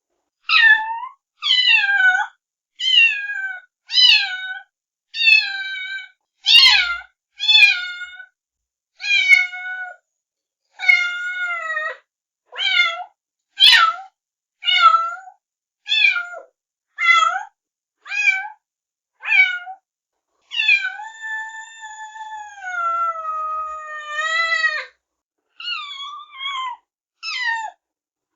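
Kittens meowing: short, high-pitched meows that fall in pitch, about one a second, with one long drawn-out meow of about four seconds past the middle.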